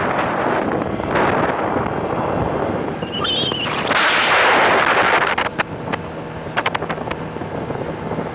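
Wind buffeting the microphone aboard a moving bass boat, with a loud gust of hiss about four seconds in. In the second half comes a run of sharp clicks and knocks.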